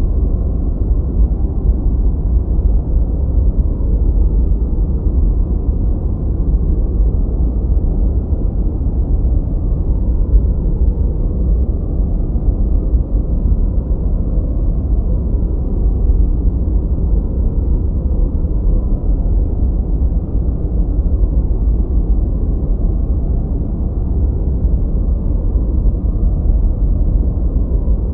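Continuous synthetic noise played for focus: a deep, even rumble with no hiss on top, steady and unchanging throughout, darker in tone than true white noise.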